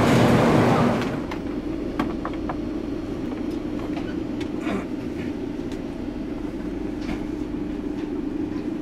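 Loud steady rumble of a standing passenger train beside the platform, dropping away about a second in to the steady hum inside an air-conditioned sleeper coach, with scattered light clicks and knocks.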